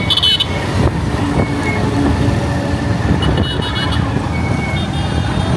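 Motorcycle riding: engine running under a steady low rumble of wind and road noise, with a few short high beeps.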